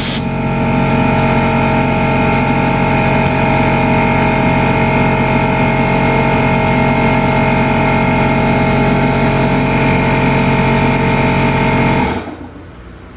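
A motor or engine running steadily at a constant speed, a loud even hum, that cuts off suddenly near the end.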